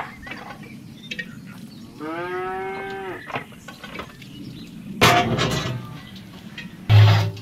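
A cow moos once, a long call that drops in pitch at its end. Later come loud metal clanks, the last one near the end the loudest, from the metal door of a brick oven being opened.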